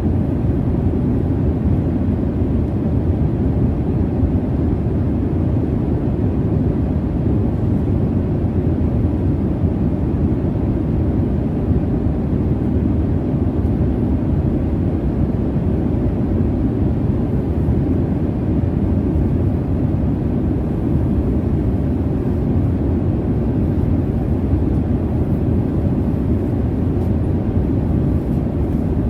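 Steady low rumble of jet airliner cabin noise in flight, with the energy mostly low and no breaks or changes.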